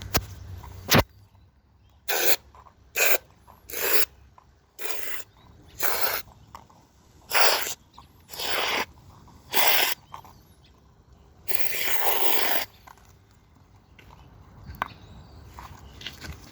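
A run of short hissing spray bursts, about nine of them, each around half a second, then one longer spray of about a second.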